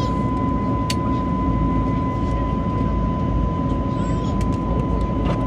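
Airbus A321neo cabin noise during the climb at takeoff power: a steady, loud rumble of the jet engines and rushing air with a thin, steady high whine over it. A sharp click comes about a second in, and a few brief high chirping sounds come about four seconds in.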